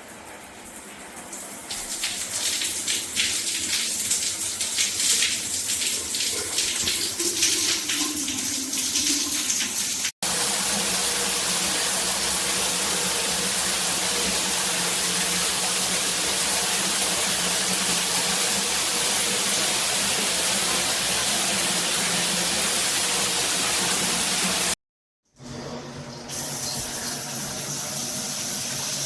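Water spraying from a 12-inch square rain shower head and falling: it builds over the first couple of seconds with uneven splashing, then settles into a steady, even rush. It breaks off suddenly twice, once for an instant and once for about half a second near the end, and comes back each time.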